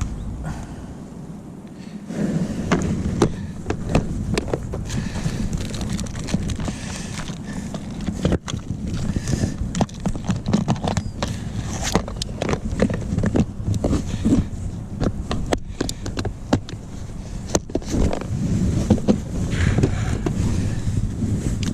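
Irregular clattering and knocking of gear being rummaged through in a plastic kayak, as for pliers in a tackle box behind the seat, with wind rumbling on the microphone.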